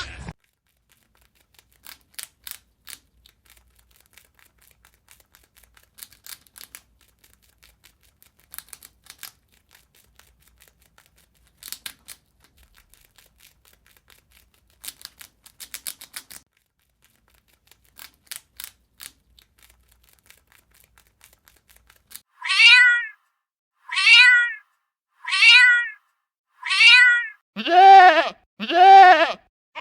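Faint, scattered clicks and taps, then a cat meowing six times in quick succession, each meow rising and falling in pitch. The last two meows are lower and longer.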